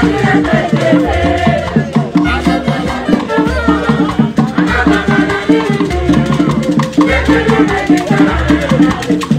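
Live Igbo ogene band music: quick, even percussion strokes over a bass note that lands about once a second, with a melody moving above.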